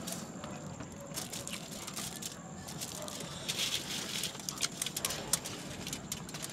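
Irregular clicking and crackling, like food and plastic packaging being handled and eaten, busiest a little past the middle, over a faint steady high whine.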